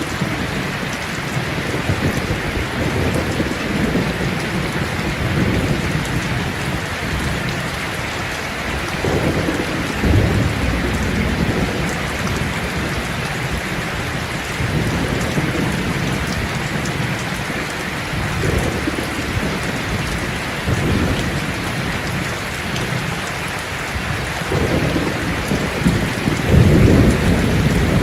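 Steady heavy rainfall with low rolling thunder rumbling now and then, the rumble swelling about ten seconds in and most strongly near the end.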